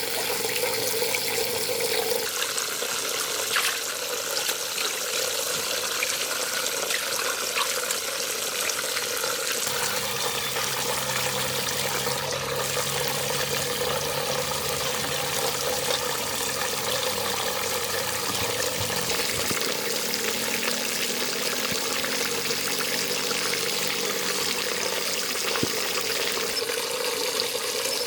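Steady rush of running water, going on without a break.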